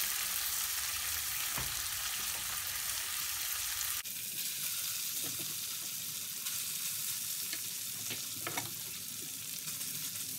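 Chicken and peppers sizzling steadily on a hot square non-stick griddle (tawa), with a few light taps and scrapes of a serving spoon as more is spooned onto it.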